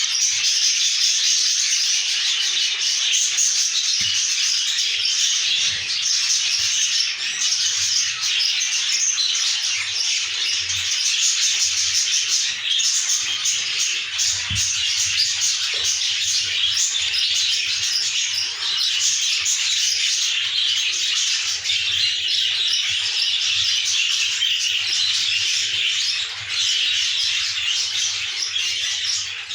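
Budgerigars chattering and chirping without a break: a dense, high, continuous twittering of several birds at once.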